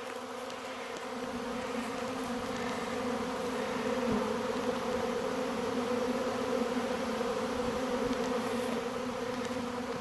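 A honey bee swarm buzzing: the steady hum of many bees in flight around a hive box, growing a little louder over the first few seconds.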